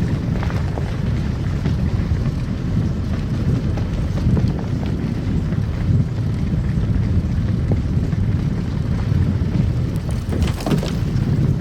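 Car driving on a snow-covered road: a steady low rumble of tyres and engine, with a few light ticks and a brief hiss near the end.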